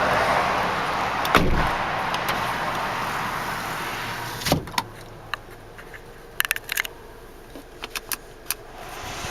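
Car door thumping shut about four and a half seconds in, after an earlier dull thump. The steady noise then drops away, leaving a quieter car cabin with a run of light clicks and rattles.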